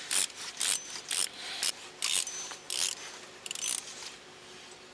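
The ratchet head of a torque wrench on a long 14 mm socket clicking in short bursts, roughly two a second, as the bolt of a Subaru's lower timing-belt idler pulley is backed out. The clicking stops about four seconds in.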